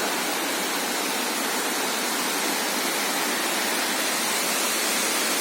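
Waterfall and river water rushing, a steady, even noise with no change.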